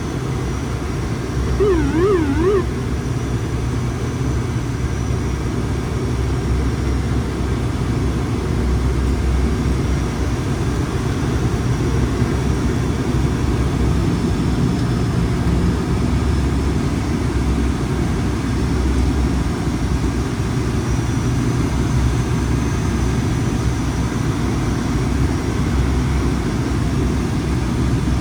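Steady drone of an ATR 72-600's two Pratt & Whitney PW127 turboprop engines and propellers on approach, heard from inside the aircraft. About two seconds in, a warbling electronic alert tone sounds briefly.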